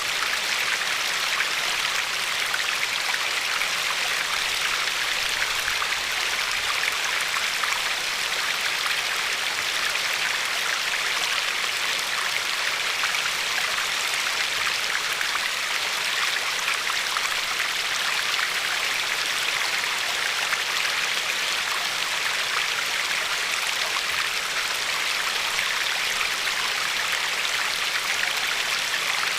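Glacier-fed river flowing steadily over a pebble shore, a constant hiss of rushing water with fine splashing.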